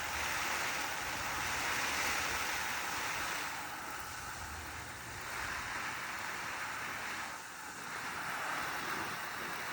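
Water spraying from a garden hose, a steady hiss that eases off briefly twice as the spray shifts.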